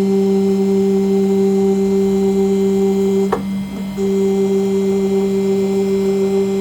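CNC engraving machine running while cutting aluminium: a steady, loud hum with a higher whine on top. The whine cuts off with a click about three seconds in and returns half a second later.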